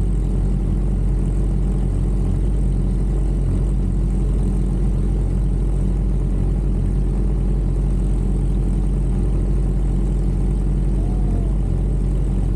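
Sport motorcycle engine running at steady revs, a constant low drone that neither rises nor falls.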